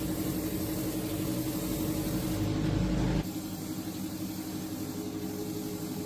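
Rebuilt old tractor engine running steadily at idle, with a steady hum. It drops suddenly in level and low rumble about three seconds in.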